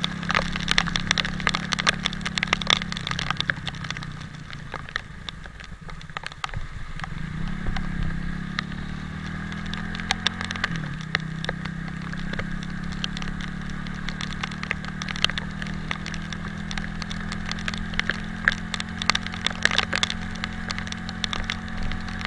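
Italika 250Z motorcycle engine running under way, easing off about four seconds in and then picking up revs again near eight seconds. Dense crackling clicks throughout from raindrops striking the camera or helmet, over a low rumble.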